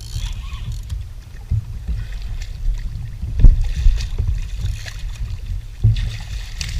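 Wind buffeting the microphone as an uneven low rumble, with a few dull knocks against the kayak, the sharpest about three and a half seconds in.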